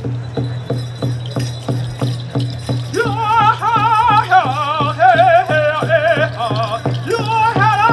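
Native American drum song for a hoop dance: a drum beaten in a steady pulse of about three beats a second, and a singer's voice coming in about three seconds in with a wavering, ornamented melody over the beat.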